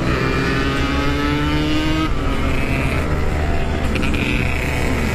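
Yamaha RX-King's 135 cc single-cylinder two-stroke engine running under way, its revs climbing for about two seconds, dropping at a gear change, then holding fairly steady.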